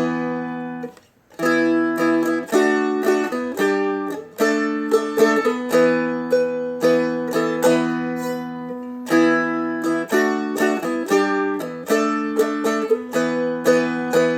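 Seagull Merlin M4, a four-string dulcimer-style instrument capoed at the first fret, strummed through a chord progression. Each chord is struck several times before the next change, with a short break about a second in.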